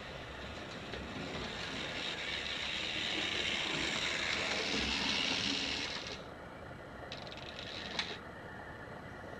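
An H0-scale model train running on the layout track: the motor and wheel noise swells to its loudest, then stops abruptly about six seconds in. Near the end comes a brief whir and a sharp click.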